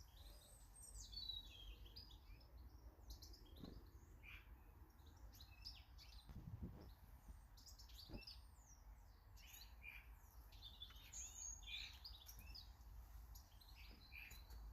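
Small garden birds chirping and twittering faintly, many short high calls with a few quick falling notes, and a couple of soft low knocks about halfway through.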